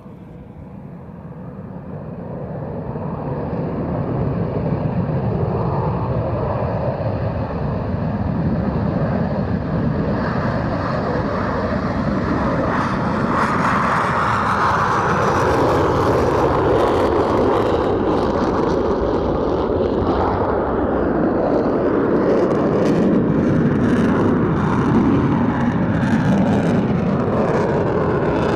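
Jet engines of an F-22 Raptor, its twin Pratt & Whitney F119 turbofans, running with a heavy rumbling noise. It grows louder over the first few seconds, then stays loud and steady.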